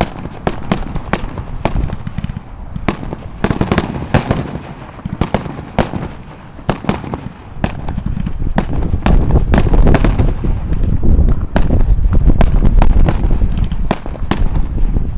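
Fireworks display: a rapid, irregular string of sharp bangs and crackling reports over a low rumble of booms. It grows denser and louder in the second half.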